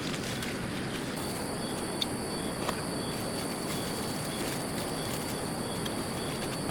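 Outdoor ambience of steady noise with insects calling: a thin high buzz that starts about a second in, and short high chirps repeating about twice a second.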